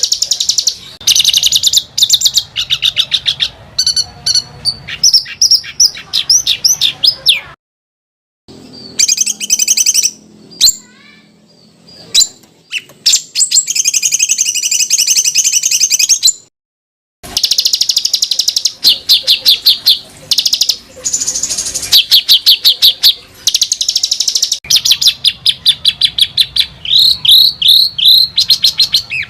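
Songbird song made of fast, tightly packed trills and rapid repeated harsh notes: the tight rolls and harsh fill notes that bird-keepers call roll rapat and kasaran. The song is high-pitched and loud, with two short dead-silent breaks about eight and seventeen seconds in.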